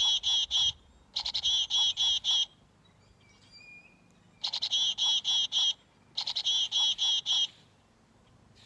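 Chickadee giving its chick-a-dee call: four bouts, each a quick run of harsh, buzzy notes, with short pauses between them.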